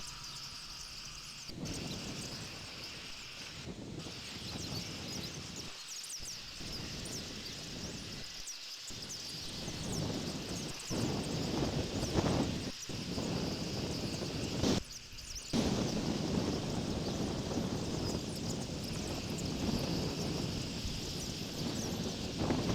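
Outdoor ambience on the eagle nest camera's microphone: wind rushing and rumbling against it, growing stronger about halfway through, over a steady high hiss, with a few brief dropouts.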